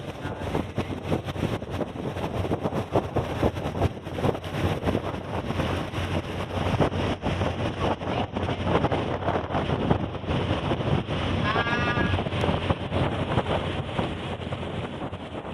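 Ship's engine running with a steady low hum, wind buffeting the microphone and constant knocking and crackling. A short wavering call rings out about twelve seconds in.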